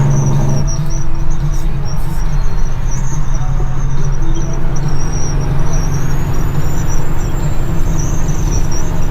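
Caterpillar C-15 diesel engine of a dump truck running steadily under way, with a faint high whistle rising slowly through the second half.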